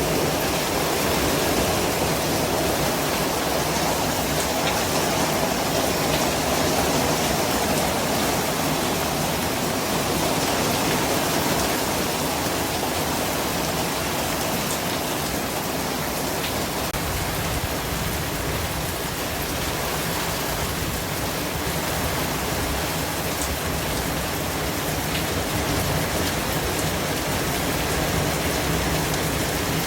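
Continuous white noise: a steady, even hiss spread across all pitches, with no breaks or distinct events.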